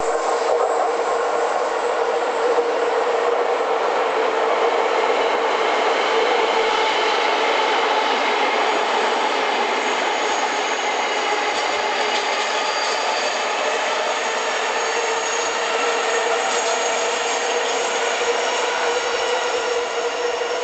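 Electric commuter trains running on the tracks beside a station platform: a steady, loud noise of wheels on rails and running gear, with a faint high-pitched whine in it.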